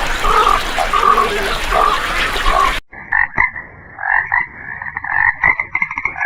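Repeated animal calls from two spliced recordings. First comes a series of calls less than a second apart over a steady hiss. An abrupt cut about three seconds in leads to rapid, pulsed calls mixed with short clicks.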